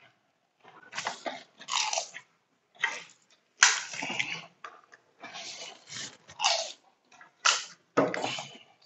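Close-up crunching and chewing of pani puri: crisp hollow puri shells breaking between the teeth in short irregular bursts with brief pauses.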